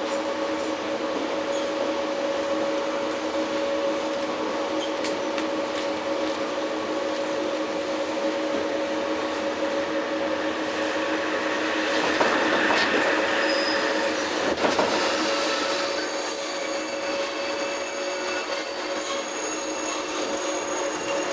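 Interior running sound of a JR 115-series electric train, heard in motor car MoHa 114: a steady hum with several held tones. About two thirds of the way in, a loud, steady, high-pitched squeal sets in, typical of the wheels and brakes as the train slows near the end of its run.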